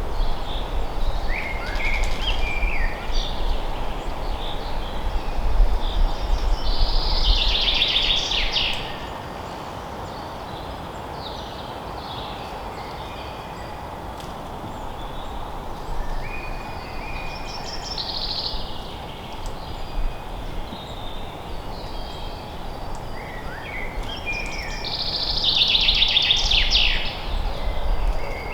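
Forest ambience with wild birds singing over a steady background hiss. Scattered chirps are joined by two loud, fast trilling songs about seven seconds in and again near the end, each lasting about two seconds.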